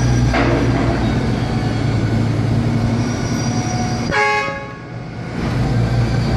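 Diesel engine of a concrete pump truck running steadily, with a short horn toot about four seconds in.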